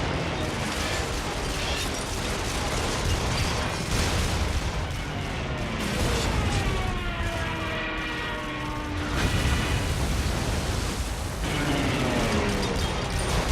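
War-film battle sound: a dense, continuous din of anti-aircraft gunfire and explosions. A falling whine starts about five seconds in and cuts off suddenly a few seconds later, and another falling whine begins near the end.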